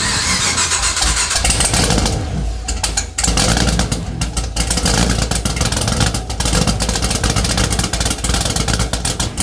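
Rebuilt Camaro ZL1 engine starting on its first fire-up after the build and running rough and uneven, because its fuel injectors are not yet tuned. It falters briefly about three seconds in, then catches and keeps running.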